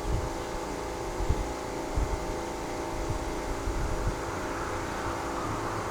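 Steady low background hum, with a few dull low thumps about one and two seconds in.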